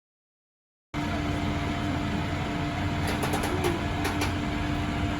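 Steady vehicle noise, a low rumble and hiss with a constant hum, cutting in about a second in, with a few faint clicks near the middle.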